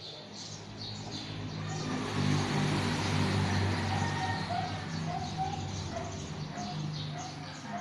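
Birds chirping, over a low droning hum that swells for a few seconds and then eases off.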